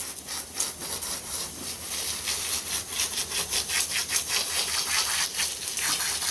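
Hand rubbing and scrubbing mud out of a wet dog's coat under hose water: quick, repeated rasping strokes over a steady hiss.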